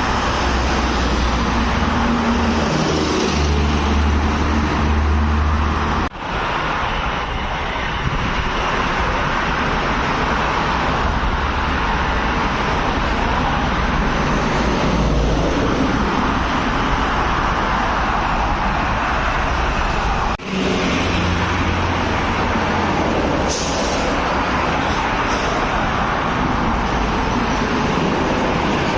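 Highway road traffic with heavy trucks: a steady low engine drone over continuous tyre and road noise, cut by two abrupt brief dropouts, with a short high hiss late on.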